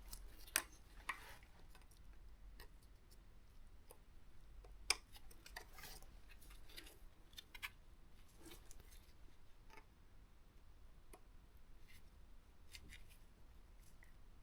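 Faint, scattered clicks and taps of small metal hand tools and engine parts being handled, a few sharper ticks among them.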